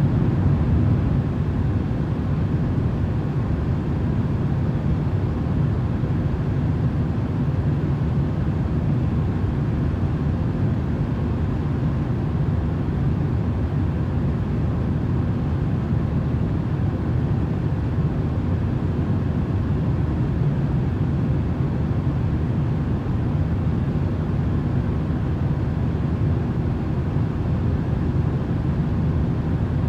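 Steady, unchanging noise for sleep, mostly low and rumbling, with no separate events or changes.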